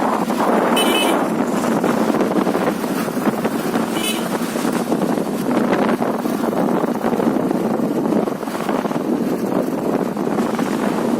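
Wind rushing over the microphone of a moving bike, with steady road noise. Brief high-pitched chirps come about a second in and again at about four seconds.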